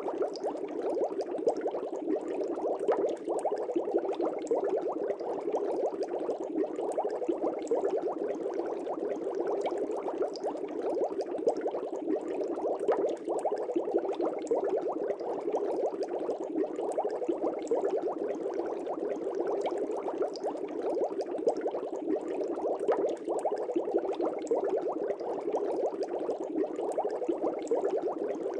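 Air bubbles streaming up through a fish tank's water: a steady, dense bubbling with many small pops.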